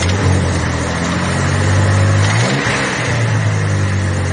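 Ford 300 cubic-inch (4.9 L) inline-six running, its pitch dipping and rising briefly about two seconds in as the throttle is worked. The owner is chasing a top-end tick or clatter, which he suspects comes from the valve springs.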